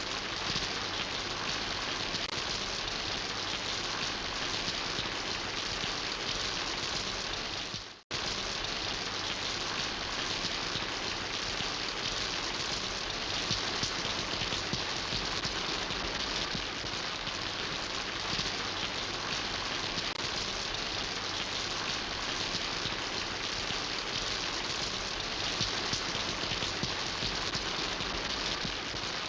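Steady rain falling, an even hiss of drops. About eight seconds in it fades out briefly to silence and then cuts straight back in.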